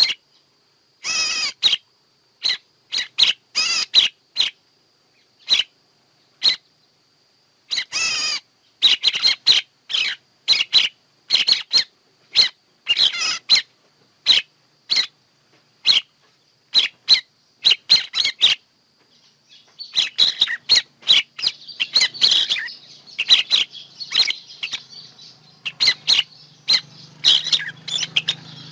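Bird-trapping lure recording of songbirds: a string of short, sharp chirps, some in quick runs, over a faint steady high tone. About two-thirds of the way in it turns into a denser chattering of calls.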